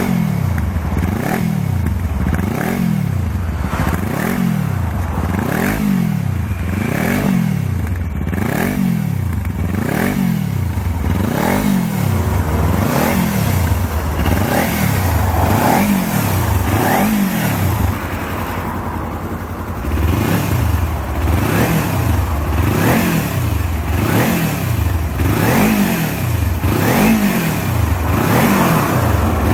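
Kawasaki Ninja 250 with a BEAMS R-EVO stainless slip-on muffler, its engine revved over and over in quick throttle blips, about one a second, each rising and dropping back. It settles briefly to a lower, steady run a little past the middle, then the blips resume.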